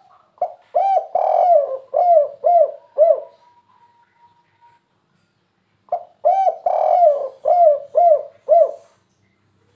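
Spotted dove (tekukur) cooing: two song phrases of about six arched coos each, a long middle coo followed by three short closing notes, the 'kuk 3' ending prized by dove keepers.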